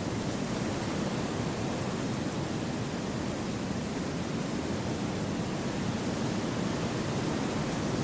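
Wind blowing through forest trees: a steady, even rushing that is fuller in the low range.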